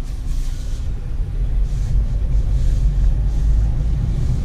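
Peugeot Partner van driving: steady low engine and road rumble heard inside the cabin.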